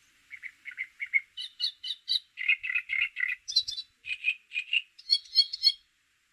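A songbird singing a rapid song of short chirped notes, each figure repeated three to five times before switching to a new, often higher, figure, over about five and a half seconds.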